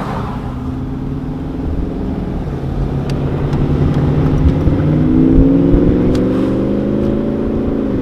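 Car engine running steadily, then pulling with a slow rise in pitch and loudness from about halfway through before easing off near the end.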